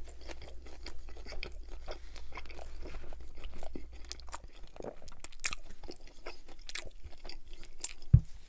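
Crunchy chewing of a bite of chicken Caesar wrap with croutons, a steady run of small crackles. One sharp, low thump just before the end.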